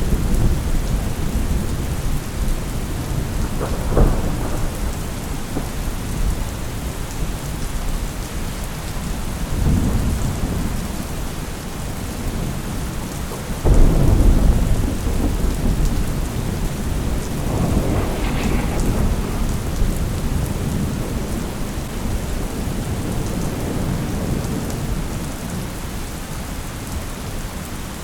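Thunderstorm: steady rain with repeated rolls of thunder. There is a sharp crack about four seconds in, and the loudest clap rolls in about halfway through.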